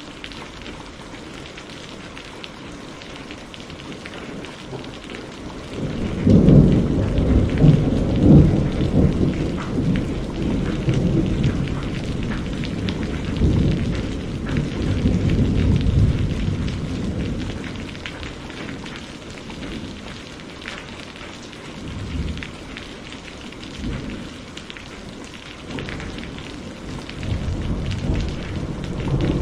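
Steady heavy rain with thunder: a loud rolling rumble breaks about six seconds in and fades out over the next ten seconds, followed by fainter rumbles near the end.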